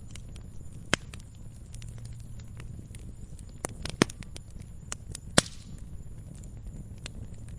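Wood fire crackling in a fireplace: a low steady rumble with scattered sharp pops, the loudest about five seconds in.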